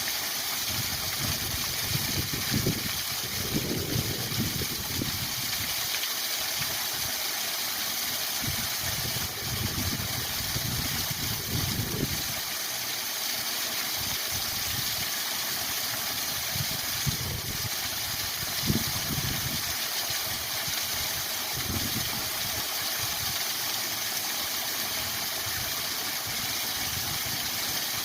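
Waterfall rushing steadily, with irregular low rumbling swells coming and going underneath.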